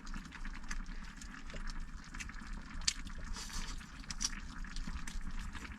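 A pot of food simmering on the stove: faint, irregular small pops and bubbling over a low hiss.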